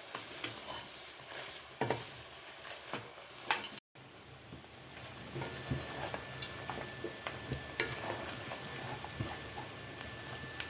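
Chicken and onions sizzling as they fry in a pan, with a spoon stirring and knocking against the pan now and then. The sound drops out briefly near the middle, then the sizzling goes on.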